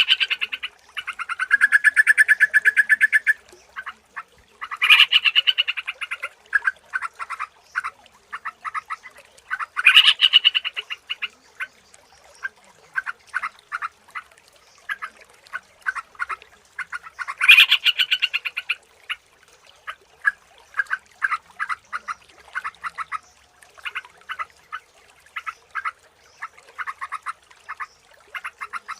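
Yellow-vented bulbul (trucukan) singing: several loud, bubbling song phrases, with strings of short chirps between them.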